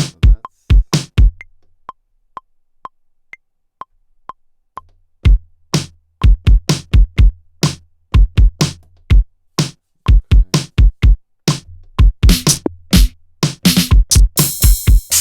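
Maschine+ groovebox playing programmed electronic drums: a few heavy kick hits, then only a steady click track ticking about twice a second for several seconds. A dense beat of kick drum, bass and hi-hats then comes in, with a cymbal-like wash near the end.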